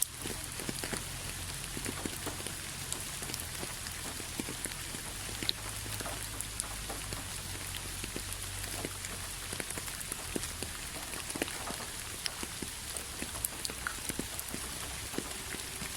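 Steady rain falling on a hard surface: an even hiss with many separate drops ticking sharply at irregular moments.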